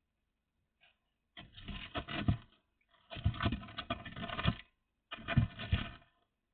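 Scraping and scratching in four short bursts, each about a second long with brief gaps between them.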